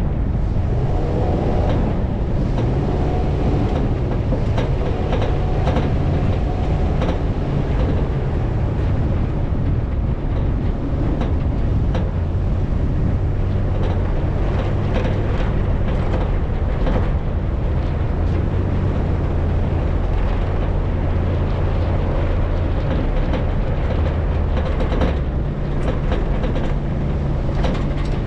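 Off-road vehicle engine running with a steady low drone while driving over sand dunes, with repeated knocks and rattles from the vehicle.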